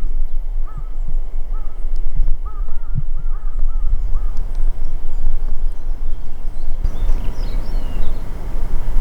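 A bird calling repeatedly with short arched notes over the first half, then fainter high chirps of small birds, all over a steady low rumble.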